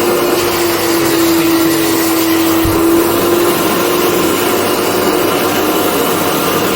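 Carpet cleaning machine running steadily: a motor's hum with a constant hiss. A brief low knock about two and a half seconds in.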